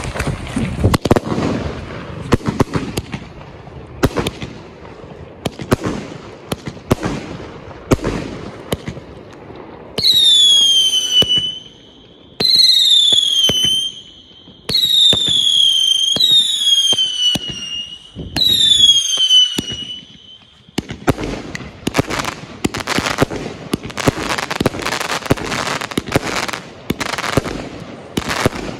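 Bugano Phönix firework cake (1 kg NEM) firing. First comes a string of sharp, irregular bangs, then five long whistles that fall in pitch, each about two seconds apart. It ends in a dense stretch of rapid popping and crackling.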